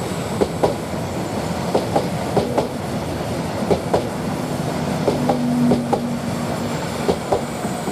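Greater Anglia Class 745 electric multiple unit going past, its wheels clicking over rail joints, with a steady hum for a couple of seconds in the middle.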